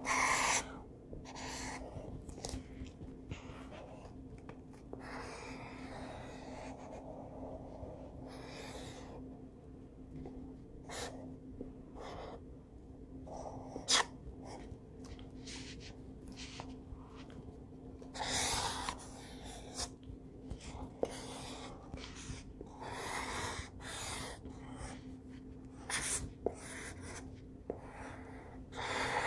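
Pencil sketching on paper: irregular scratchy strokes, some short and quick, others drawn out for a second or so, with pauses between.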